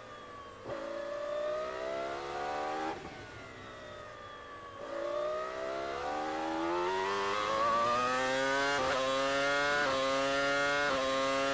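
Formula One V10 engine heard onboard. The revs fall, climb through a gear, and fall again as the car lifts and brakes. From about five seconds in it accelerates hard and upshifts at high revs about once a second, each shift a brief dip in the note.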